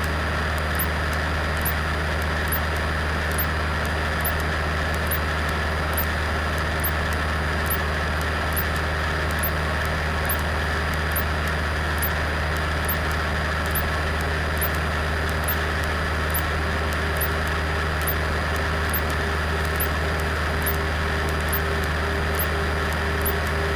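Cessna 172 Skyhawk engine and propeller drone heard from inside the cockpit in cruise-descent on approach, steady and unchanging. A faint dashed beeping tone comes in near the end, over faint high ticks about once a second.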